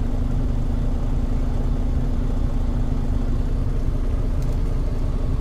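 Semi truck heard from inside the cab: a steady low engine rumble with a constant hum.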